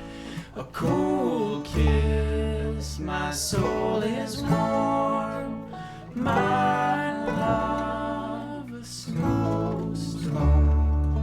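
Closing bars of a folk song: acoustic guitar and banjo picking over upright-style bass, with a sung line drawn out in long notes. A low bass note comes in near the end and the music fades.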